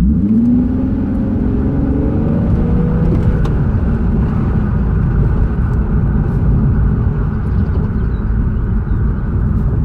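Car engine heard from inside the cabin, rising in pitch as the car accelerates over the first two to three seconds, then a steady low engine and road rumble while driving.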